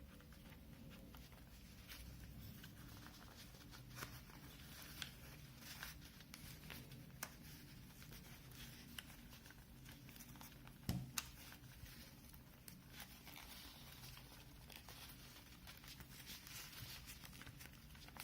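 Faint rustling and small clicks of a replacement ear pad being stretched and pressed onto a Beyerdynamic DT 770 headphone cup by hand, with one louder knock about eleven seconds in.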